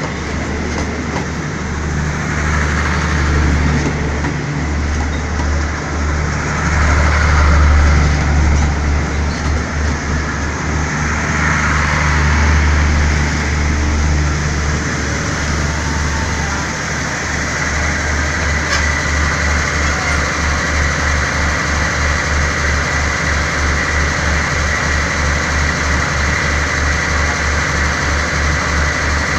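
Diesel locomotive engine running at a railway platform, louder and swelling over the first half, then settling into a steady idle with an even low throb of a few beats a second.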